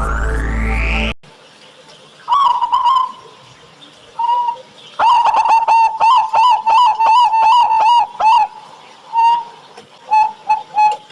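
A rising electronic music sweep cuts off about a second in, then a zebra dove (perkutut) sings its cooing song: a couple of single coos, a fast run of about a dozen clipped notes at about four a second, then a few more coos near the end.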